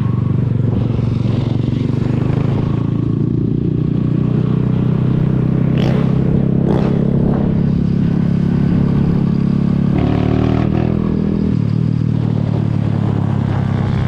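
Zanella Sapucai 200 motorcycle engine running steadily while riding, its note shifting briefly about ten seconds in. Three short sharp sounds come about six to seven seconds in.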